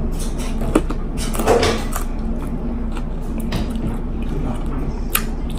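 Close-up crunching and chewing of a crisp mini sweet pepper topped with rice and sauce: a bite, then scattered sharp crunches as it is chewed.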